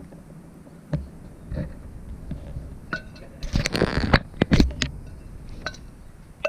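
A few light clinks and taps of dishes and utensils, with a denser stretch of scraping and rustling about three and a half seconds in, as crumb topping for an apple crisp is handled.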